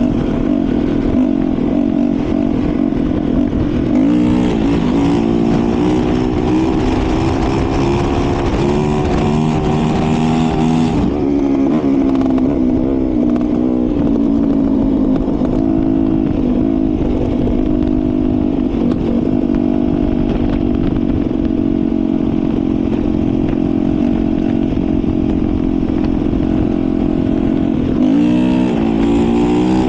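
Dirt bike engine running under way, its pitch climbing as it revs up about four seconds in, dropping back about eleven seconds in, and revving up again near the end.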